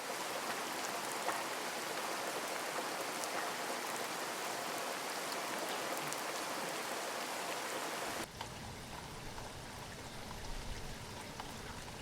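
Steady rain falling, with scattered drops ticking through the hiss; about eight seconds in it turns softer and duller, with more low rumble.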